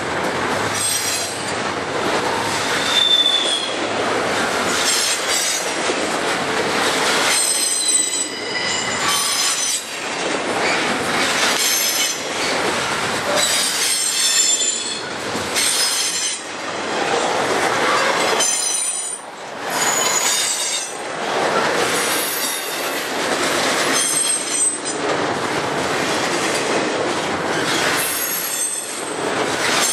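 Double-stack intermodal container well cars rolling past close by. The wheels clatter in a repeating rhythm, and high-pitched wheel squeal comes and goes.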